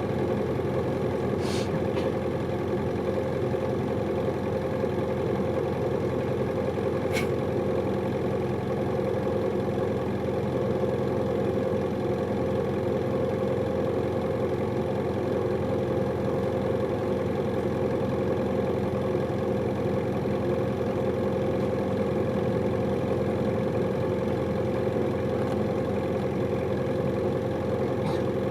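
Hino Liesse small diesel city bus engine running steadily, heard from inside the passenger cabin, with a constant whine over the drone. Two short sharp clicks, about 1.5 and 7 seconds in.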